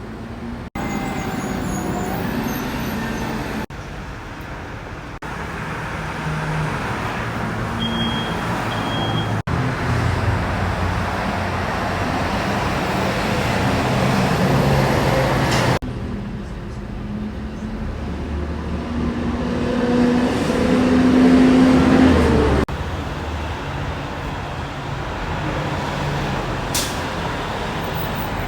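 Road traffic with trucks and other vehicles going by, engines running over tyre noise, the sound changing abruptly several times. About a third of the way in come two short high beeps. The loudest part, about three quarters through, is an engine rising in pitch as it pulls away, ending suddenly.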